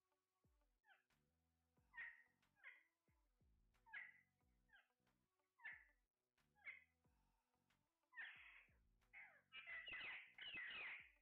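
Parrots calling: short screeches that fall in pitch, about one every second and a half, then louder and packed closer together from about eight seconds in.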